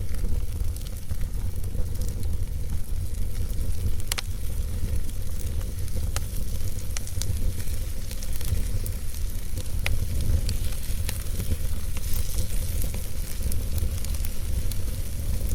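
Logs burning in a fireplace: a steady low rumble of flame with scattered, irregular sharp crackles and pops from the wood.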